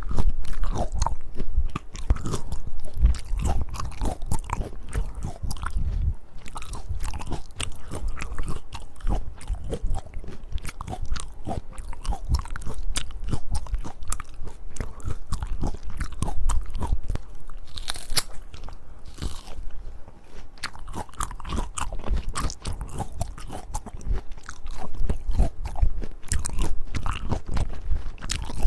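Close-miked biting and chewing of a firm peach: crisp, crunching bites and wet chewing that keep on, irregularly, throughout.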